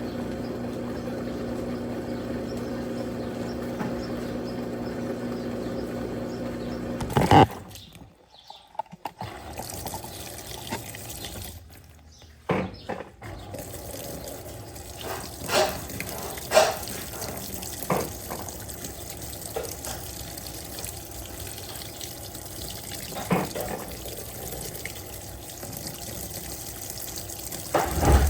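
Electrolux 15 kg top-load washing machine: its motor hums steadily, then stops with a loud clunk about seven seconds in. Water then runs into the tub, with occasional knocks from the machine, as it starts filling for the rinse.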